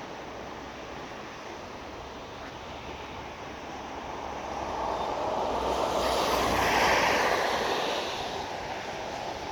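A car driving past on a rain-soaked road, its tyres hissing through the water and throwing up spray; the sound swells to a peak about seven seconds in and fades away, over a steady wash of rain and traffic noise.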